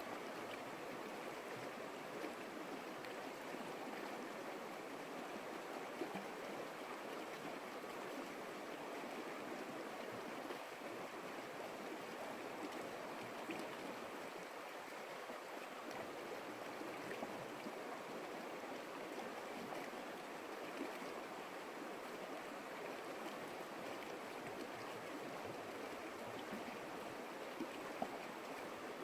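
A stream flowing: a steady rush of running water, with an occasional brief splash, once about six seconds in and again near the end.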